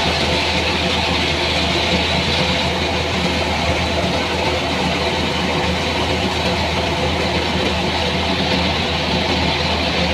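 An engine running steadily at an even, unchanging pitch, with a constant hum and hiss.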